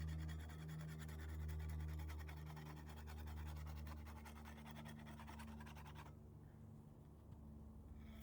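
An airplane flying over: a steady low engine drone that slowly fades as it passes.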